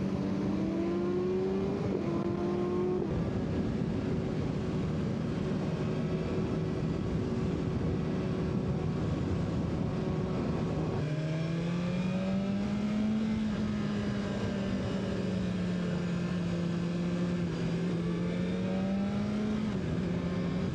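BMW S1000RR inline-four engine running at a steady cruise, heard with wind rushing over the microphone. The pitch rises slightly near the start, breaks off briefly about halfway, then climbs again and holds.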